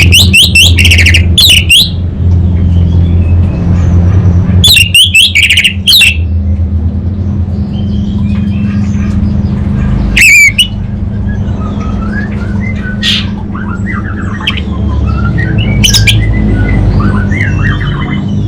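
Orange-headed thrush (anis merah) singing: loud, harsh calls of the 'salam' type come every few seconds, with softer warbling phrases between them, over a steady low hum.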